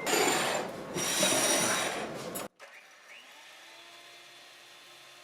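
A small electric motor, like a kitchen appliance's, runs loudly in two bursts with a short break just under a second in. The sound then cuts off abruptly about two and a half seconds in, leaving only a faint hum.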